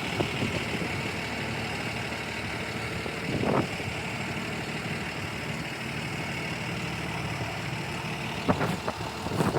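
Freightliner M2 106 Plus's Cummins 6.7-litre diesel engine idling steadily. There is a brief swell of noise about three and a half seconds in, and a few short knocks near the end.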